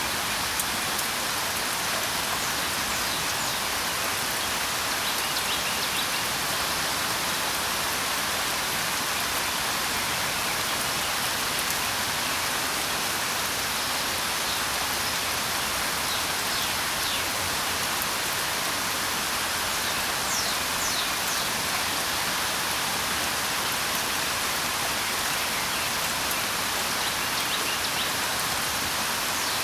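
Steady rain, with faint high bird chirps now and then.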